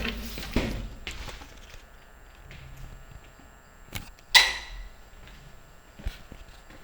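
A few separate knocks and thuds, the loudest about four and a half seconds in with a short ringing tail, over a quiet background.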